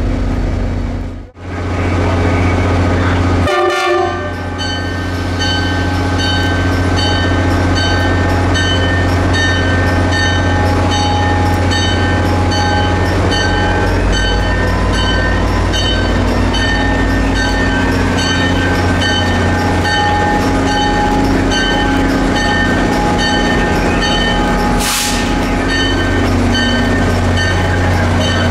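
A train running steadily with a low rumble, while a bell rings in an even rhythm, about every two-thirds of a second. There is a short break in the sound about a second in.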